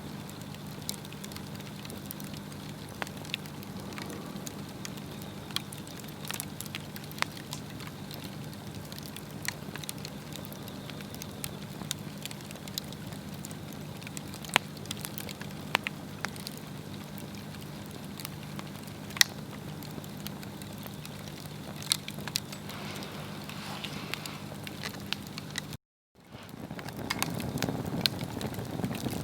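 Swedish torch log fire burning, the wood crackling with irregular sharp pops over a steady low hum. Near the end the sound cuts out for a moment and comes back with a louder rumbling noise under the crackling.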